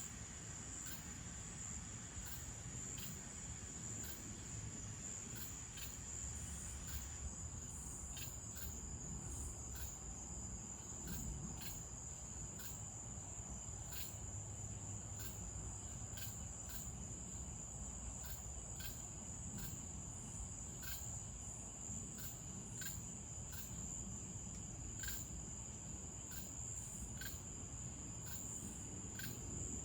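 Crickets trilling at night: one continuous high-pitched trill, with faint ticks repeating about once a second.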